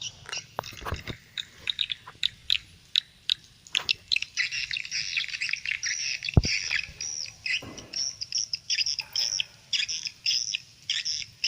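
Swiftlet calls, a recorded lure sound played back through a phone speaker: a quick, steady run of short high chirps and twitters, thickest in the middle. A sharp knock comes about six seconds in.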